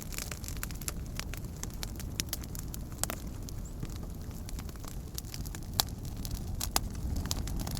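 Wood campfire crackling, with irregular sharp pops and snaps over a steady low rumble; two sharper pops come near the end.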